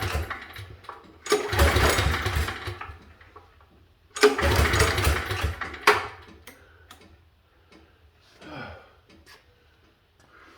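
Briggs & Stratton generator engine being pull-started with the recoil starter. It turns over briefly on each of three pulls, the first already under way and the others starting about a second and a half and four seconds in, but never catches. The engine is failing to start. After the pulls come only a few faint clicks.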